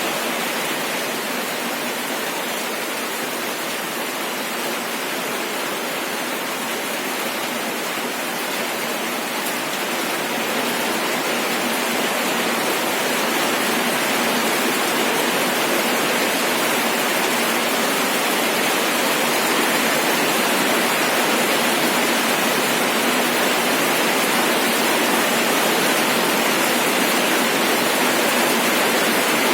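Steady rain falling, an even hiss of many drops that swells slightly partway through.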